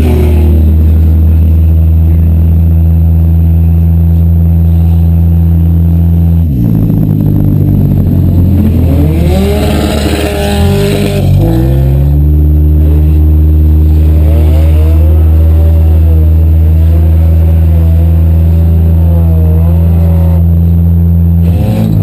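Demolition derby cars' engines running hard and loud with a steady drone, the main engine's revs dropping and climbing back twice, about a third and halfway through, while other engines rev and waver in pitch over it.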